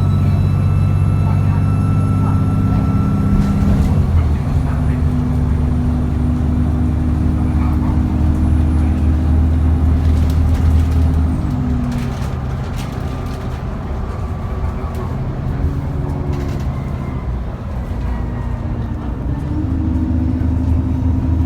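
Cummins ISBe 6.7-litre diesel of an ADL Enviro400 bus running under way, with a thin turbo whine over the engine note. The engine pitch steps to a new level about 4 seconds in and again around 11 seconds as the ZF gearbox shifts, goes quieter for a stretch, then picks up again near the end.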